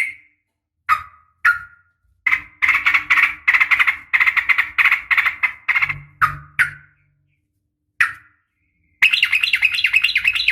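Yellow-vented bulbul (trucukan) calls, given as a female calling a male: a few single sharp chirps, then a long rapid run of bubbling notes from about two to six seconds in, more single chirps, and another fast rattling run near the end.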